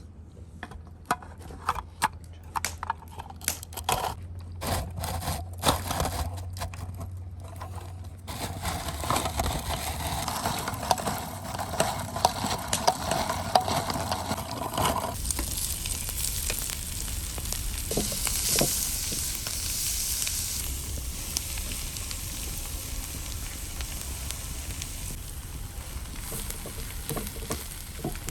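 A run of sharp clicks and knocks, then food sizzling and frying in a hot pan, with stirring, for the rest of the stretch.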